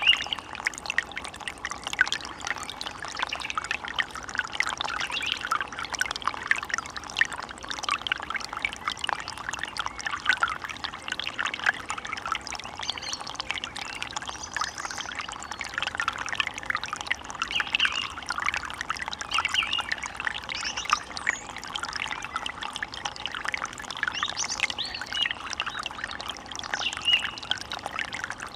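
Water running and splashing steadily, as in a stream, with a few brief bird calls.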